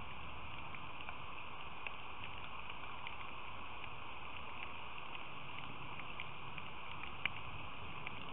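Steady rain falling, a constant hiss with scattered light ticks, the sharpest about seven seconds in.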